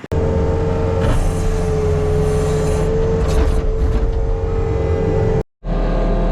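Diesel engine of an earthmoving machine running steadily at high revs, with a low rumble and a constant whine over it. It cuts out for a moment about five seconds in and comes straight back.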